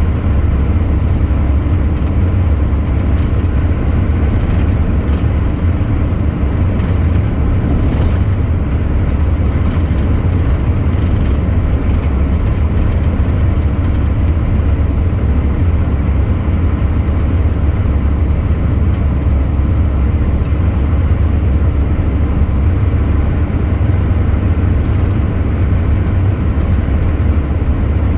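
Truck under way at a steady speed: a constant low engine drone with road noise, unchanging throughout.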